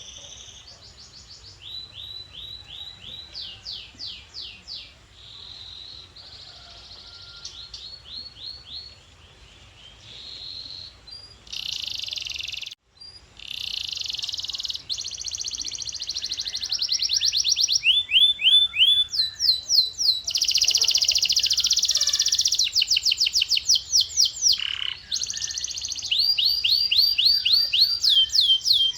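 Male canary singing: a long song of fast trilled phrases, each a quick run of the same high note repeated many times before switching to a new one. The song breaks off for a moment near the middle, then grows markedly louder for the second half.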